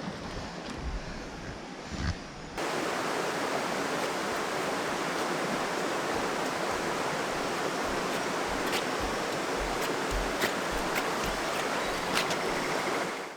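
Rushing water of a river waterfall close to the microphone, a steady even rush that jumps suddenly louder about two and a half seconds in and cuts off abruptly at the end.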